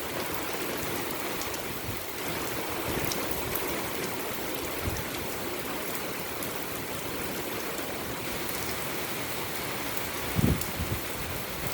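Steady rain falling, an even hiss throughout, with one brief low thump about ten and a half seconds in.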